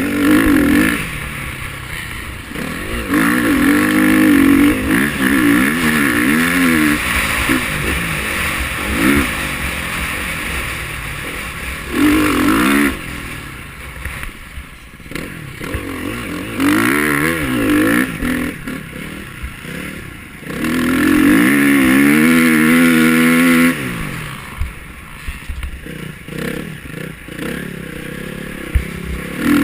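KTM 350 XC-F motocross bike's single-cylinder four-stroke engine being ridden hard. It revs up in repeated loud full-throttle pulls whose pitch climbs and falls, with quieter off-throttle dips between them.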